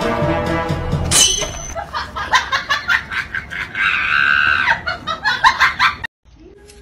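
A person laughing in short, uneven bursts, with a high-pitched shriek of laughter a little before the middle. Music plays for about the first second.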